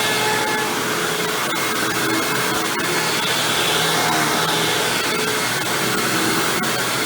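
Hoover WindTunnel Supreme bagged upright vacuum cleaner running steadily while vacuuming carpet. Its motor and chevron brush roll give a continuous rushing drone that swells and eases slightly every couple of seconds, with a few faint clicks.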